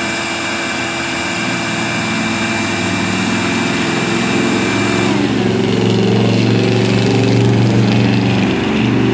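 A small engine running steadily; about five seconds in a high whine slides down in pitch and a deeper engine hum grows louder.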